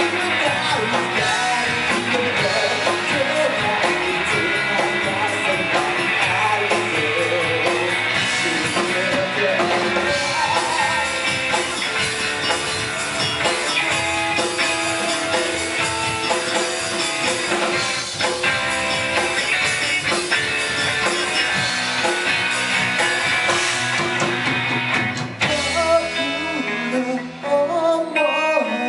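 Rock band playing live, with electric guitar, drums and singing; about three-quarters of the way through the cymbals and full-band sound drop out, leaving a sparser strummed guitar part.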